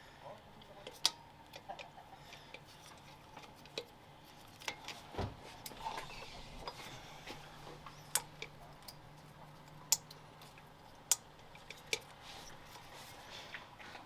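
Scattered sharp clicks and taps of tools and engine parts being handled during engine reassembly, with one dull thump about five seconds in.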